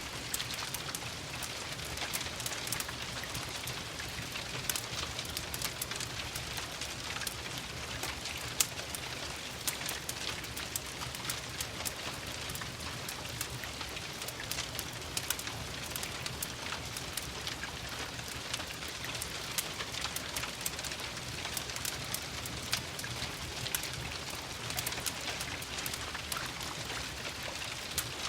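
Steady rain, an even hiss dotted with many small sharp ticks and pops, mixed with a crackling wood fire.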